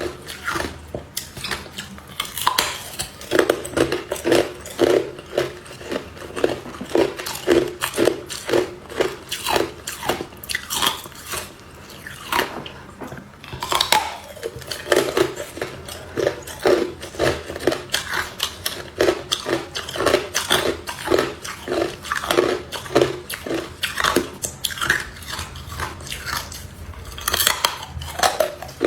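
Hard clear ice being bitten and chewed close to the microphone: a long run of crisp, repeated crunches, a few every second, with a short pause about halfway through.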